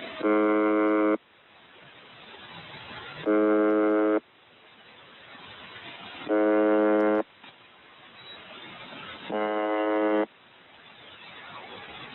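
The UVB-76 "Buzzer" shortwave station heard through a radio receiver: a harsh, low buzz about a second long, repeated four times about every three seconds. Static hiss swells in the gaps between the buzzes.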